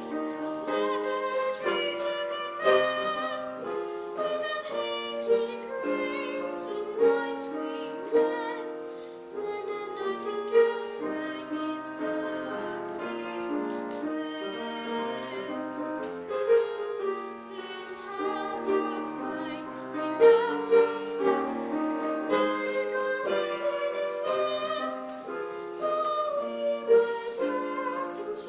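Solo piano playing a slow popular ballad, melody over chords, with notes struck in a steady flow and a few louder accented chords.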